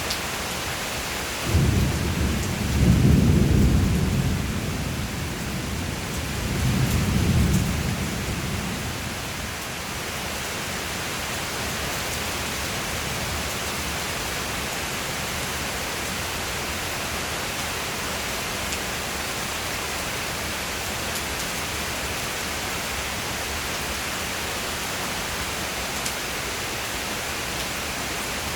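Steady rain with thunder rumbling twice: a long rumble soon after the start and a shorter one a few seconds later, then rain alone.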